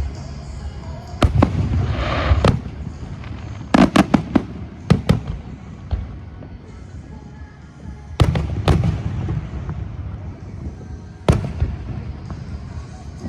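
Aerial fireworks shells bursting in a display finale: sharp bangs in irregular clusters, several close together, over a continuous low rumble of echoing booms.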